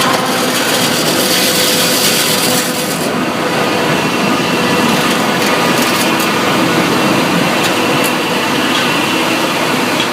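Sawmill machinery running steadily, with a harsher high hiss for the first two to three seconds and a few sharp ticks later.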